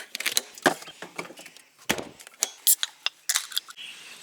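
Small hard objects clinking and knocking as camping gear is handled and packed away: a run of separate sharp clatters, the loudest about two seconds in.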